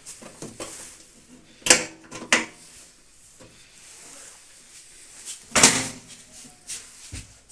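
Knocks and clatters of a microwave oven door being fitted onto the metal oven body, three main knocks with the loudest about two-thirds of the way through.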